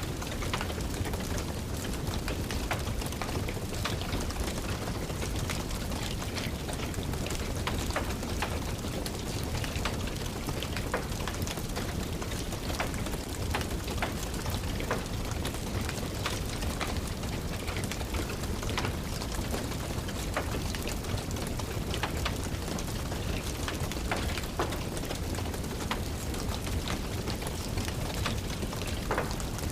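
Steady rain falling, an even hiss, with many small, sharp, irregular crackles and taps scattered through it from a wood fire crackling in a fireplace and drops striking the windowsill.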